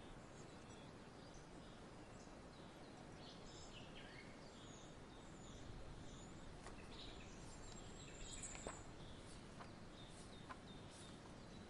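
Faint scattered songbird chirps over a steady low hiss, with a few light clicks in the second half.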